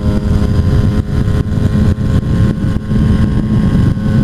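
Motorcycle engine running at a steady idle, holding one pitch without revving.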